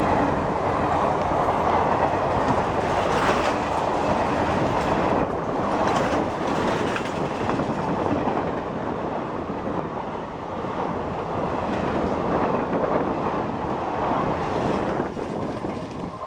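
Express train passing at speed, a continuous loud rush of steel wheels on rail with clattering over the rail joints.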